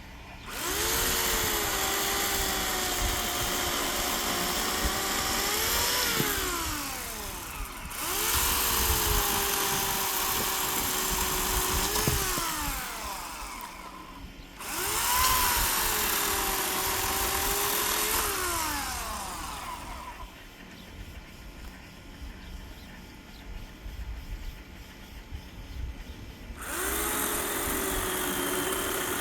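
Electric chainsaw cutting wood in four bursts of several seconds each; the motor's whine drops in pitch as the chain bites, climbs as the cut frees, then winds down when the trigger is released. The last burst starts near the end.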